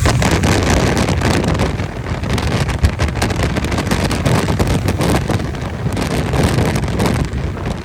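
Wind buffeting the microphone over the rumble of a vehicle on the move.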